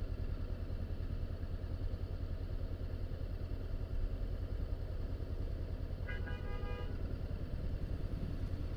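Honda CBR500R's parallel-twin engine idling steadily. About six seconds in, a vehicle horn gives one short toot of under a second.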